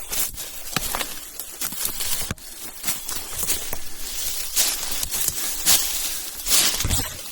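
A hiker's footsteps crunching and scuffing on leaf litter and rough ground, an irregular run of short steps and rustles several times a second.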